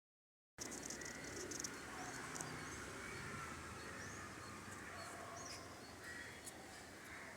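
Outdoor ambience: a steady background hiss with a few short, faint bird chirps. It starts abruptly about half a second in.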